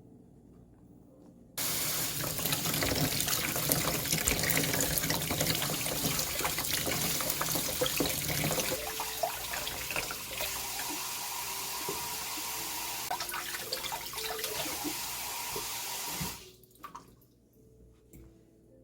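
Water running from a tap into a sink, turned on suddenly and shut off about fifteen seconds later. The splashing gets thinner about halfway through.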